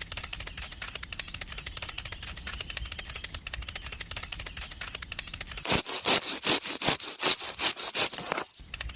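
Small homemade chaff cutter running with a fast, even clicking. From just before six seconds in there are around eight louder scraping strokes, about three a second.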